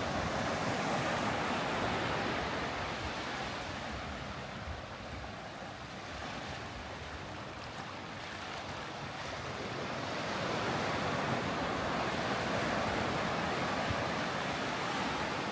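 Sea surf washing onto a beach, a steady rush of water that eases off in the middle and builds again towards the end.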